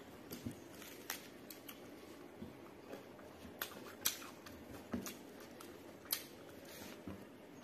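Close-miked eating sounds: chewing a mouthful of pork and rice, with irregular wet mouth smacks and clicks, the sharpest about four, five and six seconds in.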